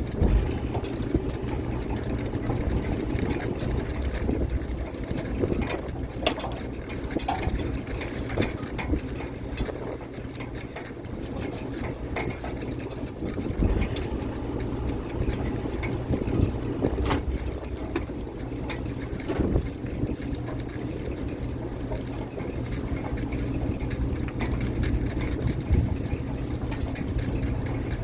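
Fishing boat's engine running steadily, with sloshing water and scattered short knocks and clicks on top.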